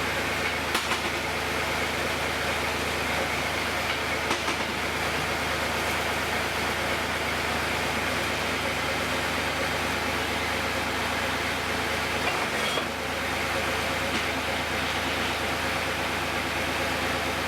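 Heavy equipment engine running steadily at an even speed, with a few short clanks over it.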